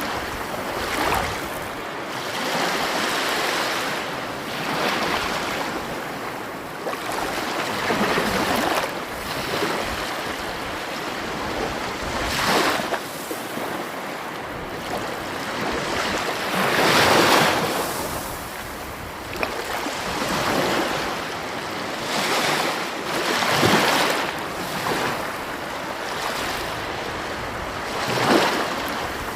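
Sea waves surging and breaking on the shore in a continuous rush of surf. Louder swells come every few seconds, with the biggest breaks near the middle and toward the end.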